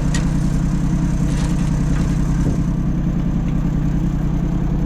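A vehicle engine idling steadily with an even low throb. There is a single sharp click just after the start.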